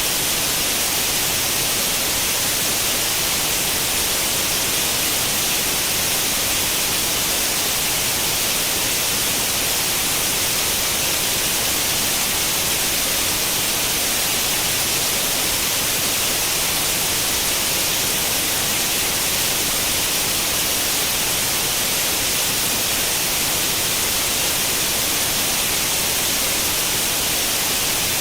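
Steady white noise like the static of an old tube television tuned to no channel: an even hiss, strongest in the treble, that does not change.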